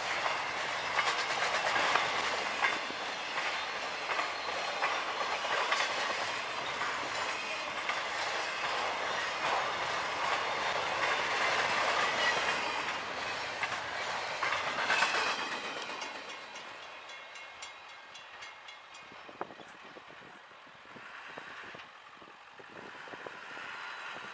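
Intermodal freight train of highway trailers on flatcars rolling past, a steady rumble of steel wheels on rail with clickety-clack. The sound dies down about sixteen seconds in, leaving faint clicks.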